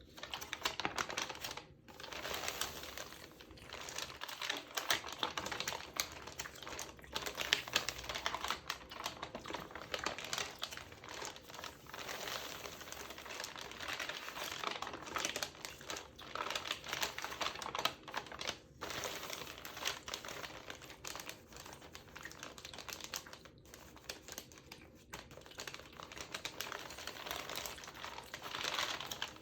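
Close-up crinkling of a magazine's textured paper pages mixed with mouth sounds, a dense continuous stream of small crackles and clicks with a few brief pauses.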